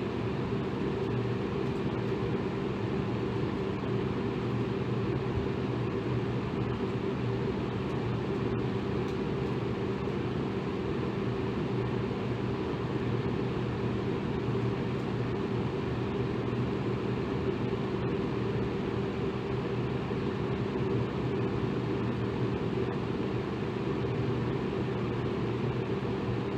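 Electric fan running steadily: an even whooshing hiss over a low, constant motor hum.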